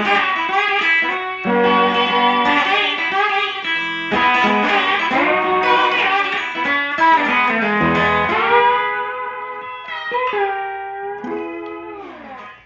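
Instrumental guitar outro of a song: plucked guitar notes, some bending in pitch, fading away over the last few seconds until the music ends.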